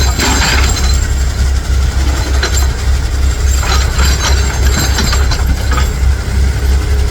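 Heavy dump truck engine running with a deep, steady rumble, overlaid by scattered metallic clanks and rattles.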